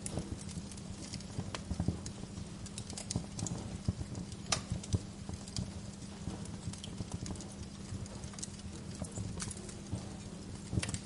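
Wood fire crackling: irregular sharp pops and snaps from the burning logs over a low, steady rumble of the flames.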